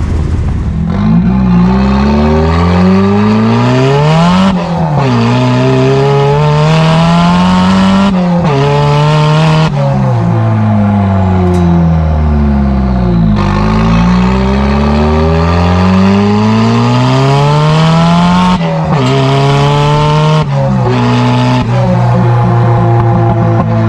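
Straight-piped Nissan S15 Silvia's SR20 turbo four-cylinder pulling hard up through the gears, its pitch climbing and dropping back at each upshift. Midway it eases off with the pitch falling, then pulls up through the gears again and settles to a steadier note near the end.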